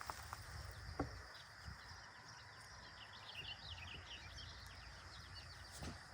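A small songbird singing a quick run of faint high twittering chirps that starts about a second and a half in and stops near the end, over a steady faint high hiss. A light click about a second in.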